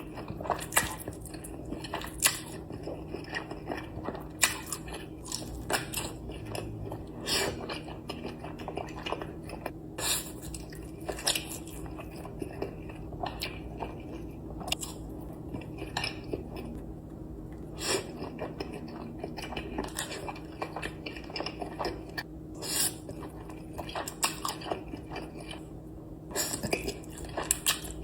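Close-miked eating: chewing with frequent sharp, irregular crunches and bites, over a faint steady low hum.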